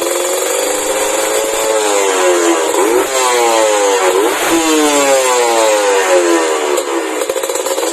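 Kawasaki Ninja two-stroke single-cylinder motorcycle engine running through a WRS aftermarket chrome exhaust. It idles steadily at first, then is revved repeatedly from about two seconds in, its pitch rising and falling with each rev.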